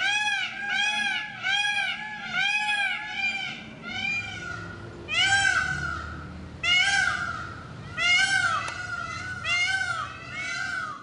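Peacocks calling: a rapid run of short, loud, rising-and-falling notes, about two a second, then louder separate calls spaced a second or so apart.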